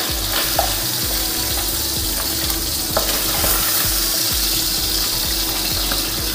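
Catla fish-head pieces sizzling in hot mustard oil in a kadai as they are lifted out with a wooden spatula. The spatula gives a couple of light knocks against the pan, about half a second and three seconds in.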